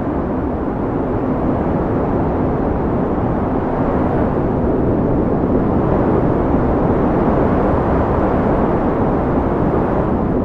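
Steady wind blowing, a deep even rush that swells a little midway.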